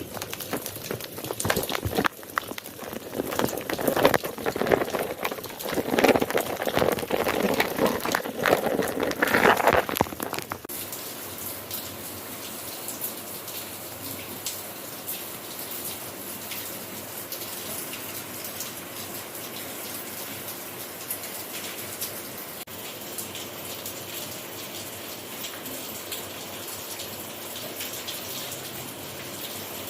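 Rain falling: heavy, uneven splattering for about the first ten seconds. Then an abrupt change to a steadier, softer hiss of rain.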